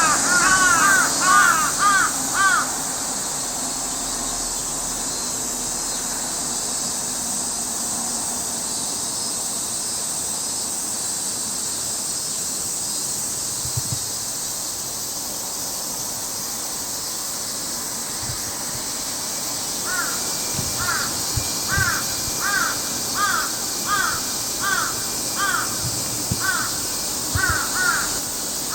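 A bird calling in runs of short, harsh, rising-and-falling notes: a quick burst at the start, then a steadier series of about one to two calls a second from two-thirds of the way through, over a steady high hiss.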